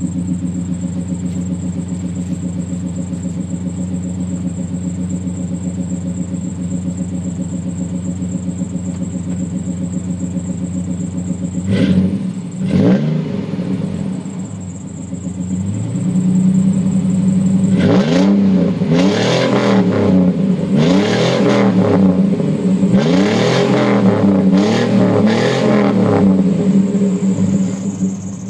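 Pickup truck engine breathing through a Flowmaster exhaust, idling steadily at first, then blipped twice about twelve seconds in. From about eighteen seconds it is revved in a run of about six quick throttle blips, each rising and falling back, before it drops back toward idle near the end.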